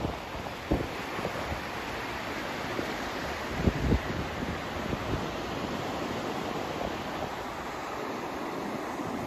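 Steady, even rushing noise of a white-noise sleep track, with a few brief low thumps about a second in and again around four seconds in.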